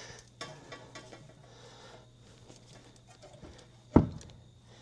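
Faint rubbing and small clicks from hands and tools at work on the car's front suspension, with one sharp knock about four seconds in.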